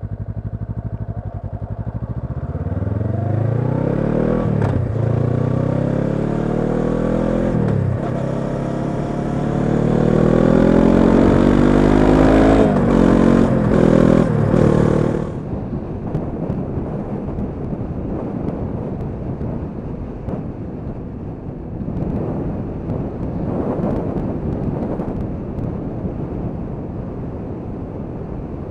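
2013 Honda CB500X's parallel-twin engine, fitted with a Staintune exhaust, accelerating away and shifting up through the gears, its note rising and dropping at each change. About 15 seconds in the engine note falls back and settles into steady running under a rush of wind noise.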